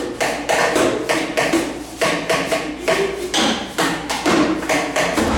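Improvised percussion played on recycled and reused objects: a steady rhythm of knocks and taps, several hits a second.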